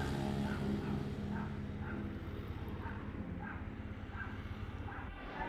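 An engine runs steadily and fades away, while a dog gives short barks again and again.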